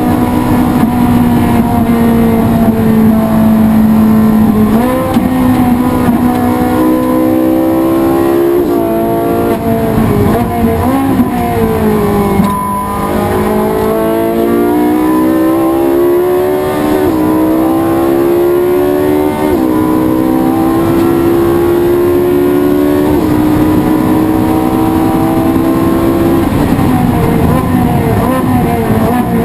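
Race car engine running hard at speed, its pitch stepping with gear changes, dipping lowest about halfway through and then climbing steadily again.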